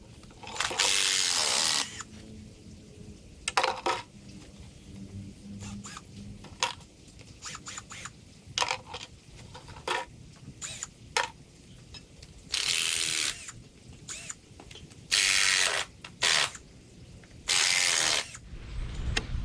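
Cordless drill running in short bursts of about a second, backing screws out of the wooden concrete forms, with sharp clicks and knocks of the boards between the bursts.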